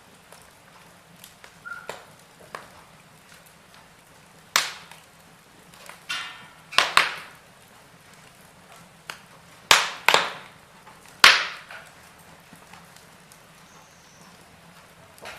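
Wood fire in a fireplace crackling: about half a dozen sharp pops, most of them between about four and eleven seconds in, with smaller ticks and a short hiss around six seconds in, over a faint steady background.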